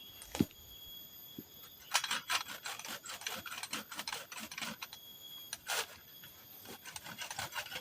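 Quick, irregular rustling and scraping of materials being handled, in a dense run of strokes from about two seconds in and again just before six seconds.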